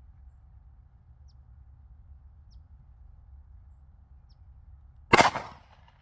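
A single Glock pistol shot about five seconds in, sharp and loud with a brief ringing tail, after several seconds of faint low rumble.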